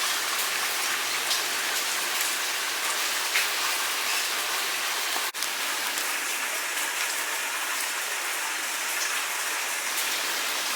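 Steady rain falling, a dense even hiss of drops, cutting out for an instant about five seconds in.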